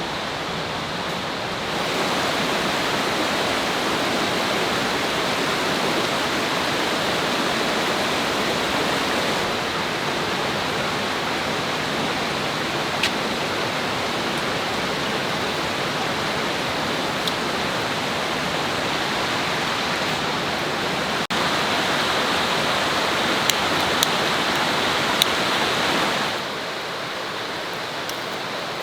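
Steady rushing of flowing river water, with a few sharp clicks about halfway and near the end.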